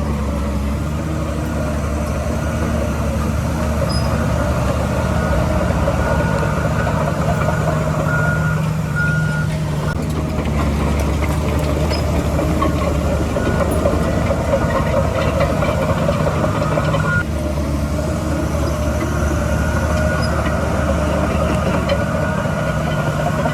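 A bulldozer's diesel engine running steadily under load, with the clatter and squeal of its tracks working. A reversing alarm gives a few short beeps at irregular intervals.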